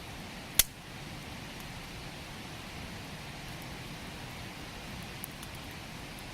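Steady rush of a river with a wood campfire crackling; one sharp, loud pop of burning firewood about half a second in, and a few faint crackles later.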